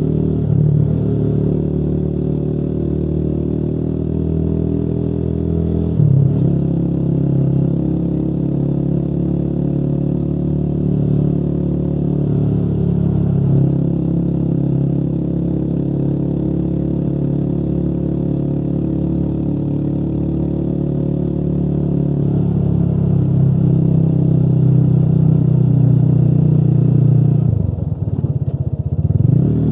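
Motorcycle engine running steadily while riding. Near the end the engine note drops briefly and then climbs again.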